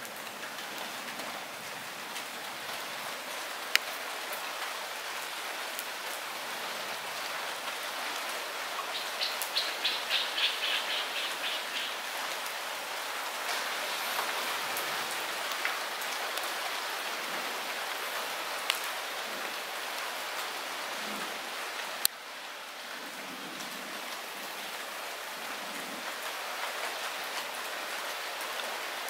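Light rain falling steadily as an even hiss, with a few sharp single drops landing close by. About nine seconds in, a rapid pulsing trill rises over the rain for about three seconds.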